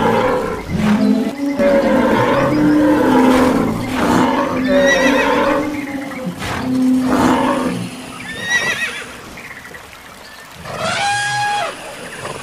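Animal stampede sound effects: a string of overlapping animal calls. Low held calls run through the first half, horse whinnies come about five and eight and a half seconds in, and a single high call with steady tones comes about eleven seconds in.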